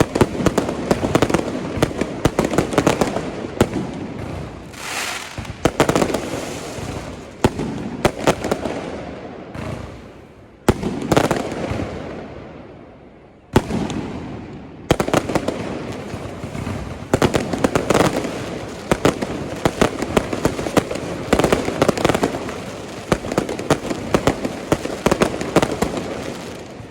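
Aerial fireworks display: a dense, continuous run of shell bursts and crackling. Near the middle it thins to two loud single bangs, each fading away, before the rapid bursts pick up again.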